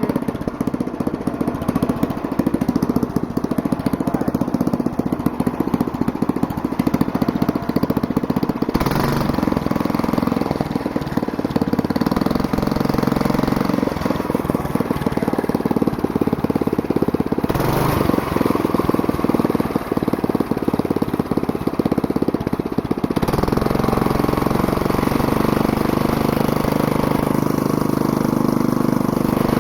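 Stock 4-horsepower single-cylinder go-kart engine running steadily with no load. Its speed shifts up or down several times, about 9, 17 and 23 seconds in.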